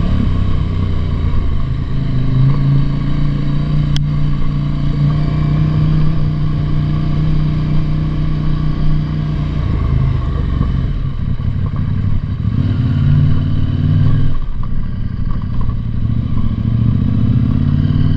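Motorcycle engine running steadily under way, with a brief drop in engine note about fourteen seconds in and a single sharp click near four seconds.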